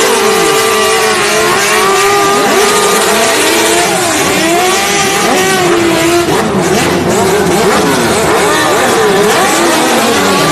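Several motorcycle engines revving up and down over and over, their pitches rising and falling across one another.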